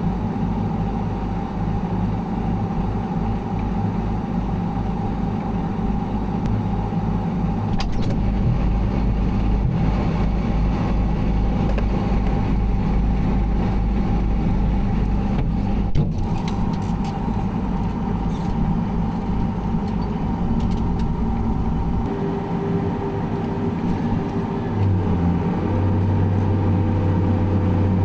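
Heavy farm machinery engine running steadily under load; about 22 seconds in its note changes and settles at a new steady pitch near the end. A single sharp click about 16 seconds in.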